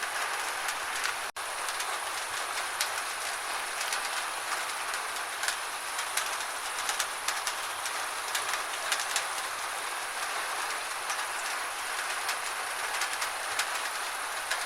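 Steady rain with many sharp, irregular drop clicks close by. The sound cuts out for an instant a little over a second in.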